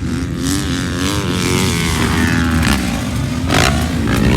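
Dirt bike engine running and revving, its pitch rising and falling.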